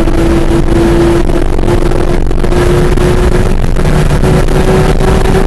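Car engine at full throttle, heard from inside the car, its pitch rising slowly as it accelerates past 200 km/h on a straight. Heavy wind and tyre noise run under it.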